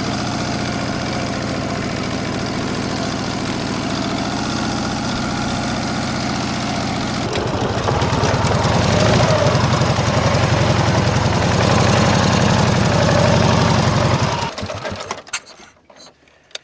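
Old sidecar motorcycle's engine idling. About seven seconds in it becomes louder, with a distinct pulsing beat, and near the end it is switched off, leaving a few light knocks.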